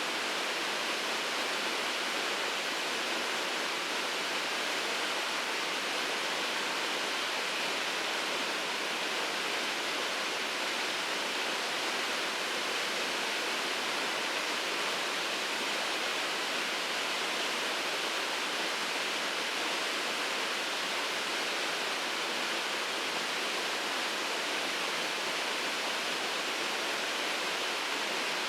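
Waterfall pouring steadily: an even, unbroken rush of falling water, brighter in the upper range, with no other sounds standing out.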